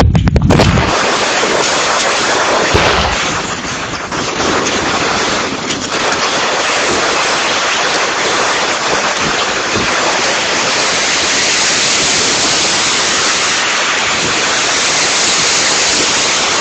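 Typhoon rain and wind: a steady, loud rush of heavy rain with wind buffeting the microphone, strongest in the first second.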